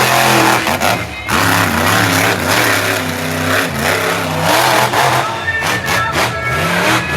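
Monster truck engine revving hard, its pitch climbing and dropping again and again over a loud rushing noise.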